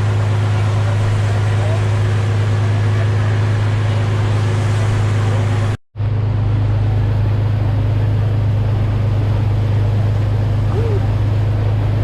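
Boat engine running steadily with a constant low drone. It cuts out for a moment about six seconds in, then resumes unchanged.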